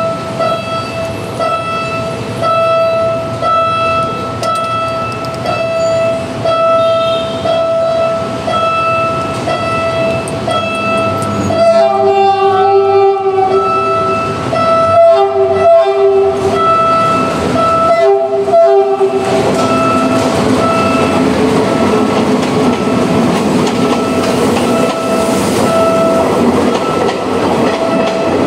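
A Philippine National Railways train sounds its horn three times, first a long blast and then two shorter ones, over a steady pulsing tone. The train then rolls past close by, its wheels clattering on the rails.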